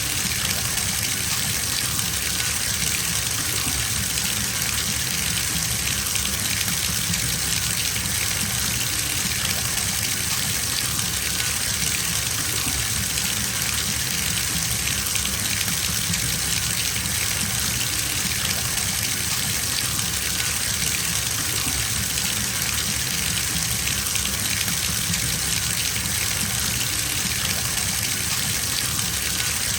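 Water running from a tap into a bathtub as it fills, a steady, even gush.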